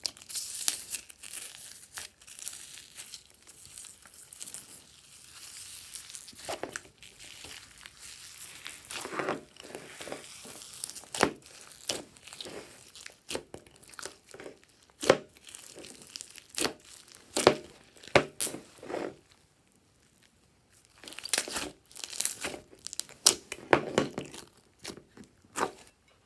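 Glossy slime being mixed and stretched by hand, with a rapid run of sticky pops, clicks and crackles and a short pause about two-thirds of the way through.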